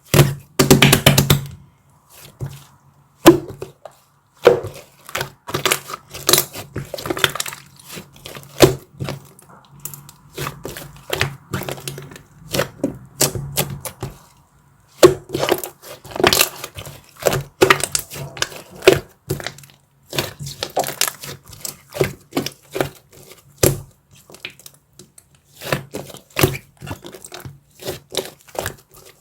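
Dark chocolate being bitten, snapped and chewed: a dense run of sharp cracks and crunches, with a low steady hum under the first half.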